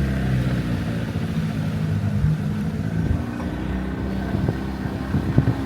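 Small boat's motor running steadily under way, with a few short knocks near the end.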